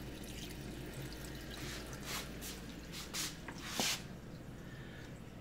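Water trickling and splashing into the wash tub of a twin tub washing machine as it fills from a kitchen tap, with a few louder splashes between about two and four seconds in.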